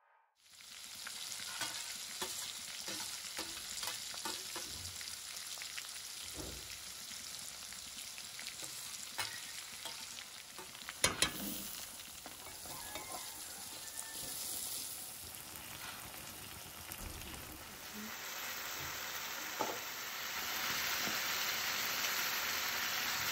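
Chopped onion and garlic frying in hot oil in a wok: a steady sizzle with occasional sharp clinks of a utensil against the pan, the loudest a little past halfway. The sizzle grows louder in the last few seconds.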